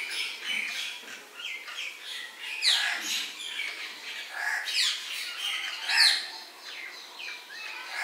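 Several birds chirping and calling, with three loud call notes that fall steeply in pitch, the loudest about six seconds in.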